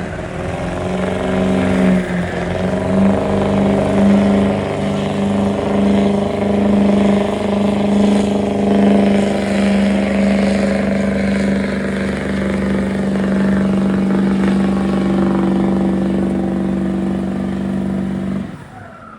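Stock diesel pickup truck engine at full throttle pulling the sled down the track. The pitch settles in the first few seconds, then holds steady until the sound cuts off suddenly near the end.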